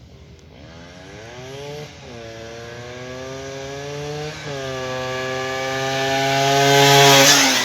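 Yamaha Tornado GS two-stroke motorcycle with a newly fitted aftermarket exhaust, accelerating through the gears. The engine pitch climbs, drops at a shift about two seconds in and again about four and a half seconds in, then climbs again, getting louder to a peak near the end before fading.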